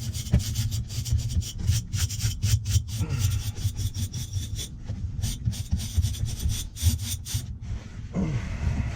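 Stiff brush scrubbing the fins of a clogged AC condenser coil in quick back-and-forth strokes, knocking packed dirt loose, over a steady low hum. The scrubbing stops about seven and a half seconds in and a different rushing sound begins.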